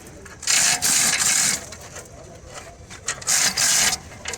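Two rasping strokes of a hand tool, each about a second long, one just after the start and one about three seconds in.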